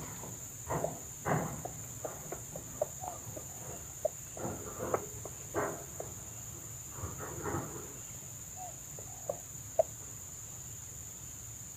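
Steady high-pitched drone of insects, over scattered short clucks and rustles from red junglefowl hens, with a few brief sharp clucks near the end.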